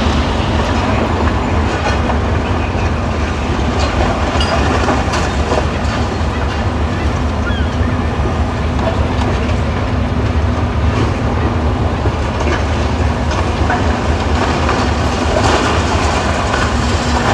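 Heavy demolition machinery at work: a steady low engine rumble under a continuous crunching and clattering of broken masonry and debris.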